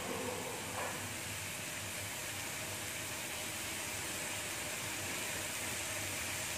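Blended spice paste frying in a wok over medium heat: a soft, steady hiss.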